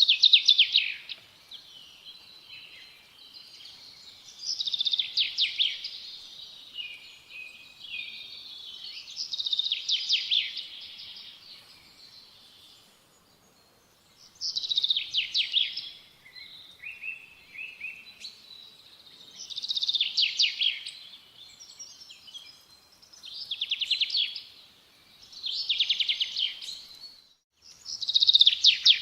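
A songbird singing, repeating a short, rapid trilled phrase every few seconds, with fainter chirps between phrases.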